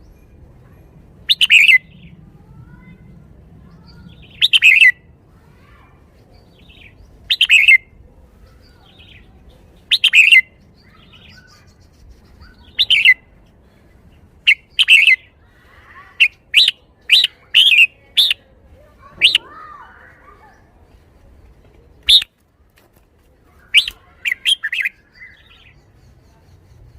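Red-whiskered bulbul singing: loud short phrases repeated about every three seconds, then a quicker run of brief notes past the middle and another quick cluster near the end.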